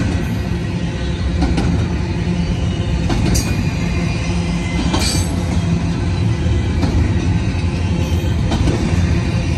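Double-stack intermodal freight cars rolling past at track side: a steady low rumble and clatter of steel wheels on rail, with a couple of brief sharp metallic squeals about three and five seconds in.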